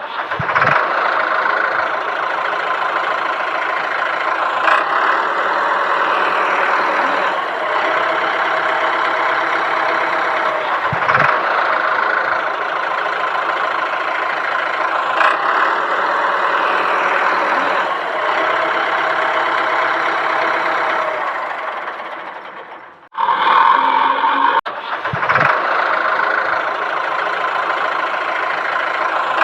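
Tractor engine running steadily, with a pattern that recurs about every ten seconds like a looped recording. It fades, cuts off briefly about three quarters of the way through, then starts again.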